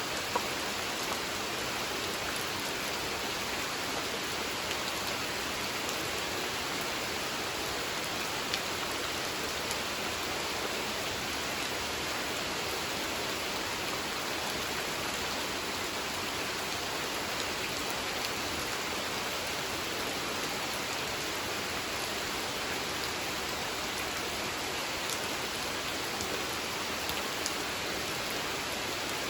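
Steady rain falling onto a pond and its surroundings: an even hiss with faint scattered drop ticks.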